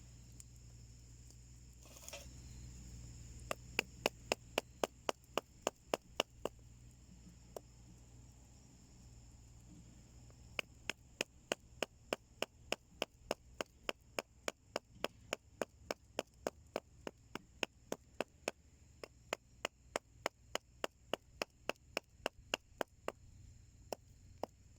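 Sharp, evenly spaced clicks or knocks, about three a second, in two runs, the second one long, over a steady high insect drone.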